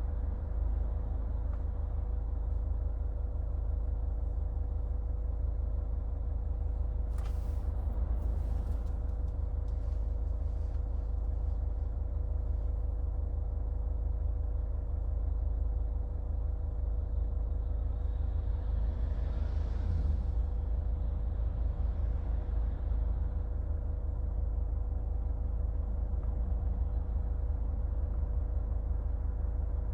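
2014 Hyundai Santa Fe driving: a steady low rumble of engine and road noise with a faint constant hum. There are a few light clicks about seven to nine seconds in, and a brief swell of noise around twenty seconds in.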